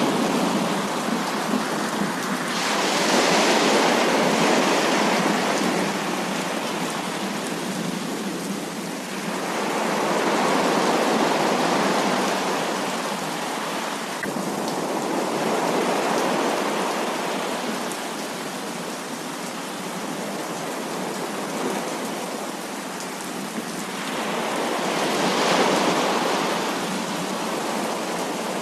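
Heavy rain: a dense, steady hiss of falling water that swells louder and eases back about four times.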